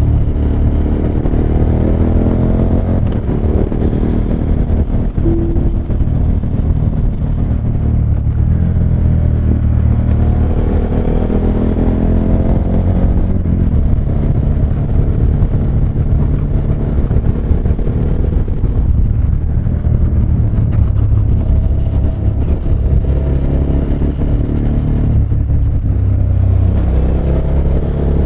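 KTM 1290 Super Adventure S's big V-twin engine running under way on the open road, its pitch rising and falling several times as the throttle is opened and closed.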